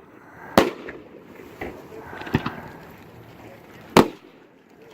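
BlackCat multi-shot aerial firework cake firing. A sharp report comes about half a second in and another about four seconds in, with smaller pops and crackling between them.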